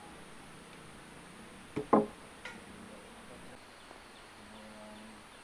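Two sharp knocks in quick succession about two seconds in, then a lighter tick, over a steady high insect drone.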